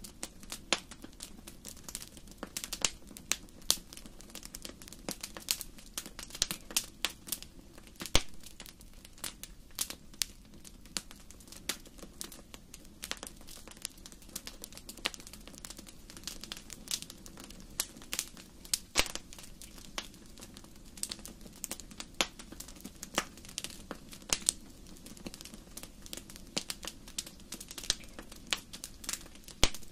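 Fire in a fireplace crackling, with irregular sharp pops, a few much louder than the rest, over a low steady hum.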